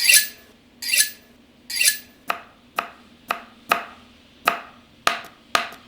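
A knife chopping on a cutting board, cut into a rhythmic beat: three longer swelling strokes about a second apart, then sharp knocks about every half second.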